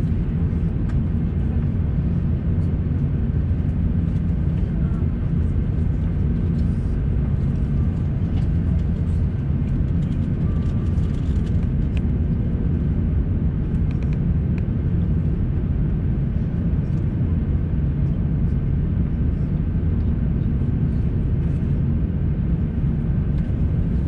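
Steady airliner cabin rumble inside an Airbus A350-900, heard from a window seat, with a thin steady whine above it.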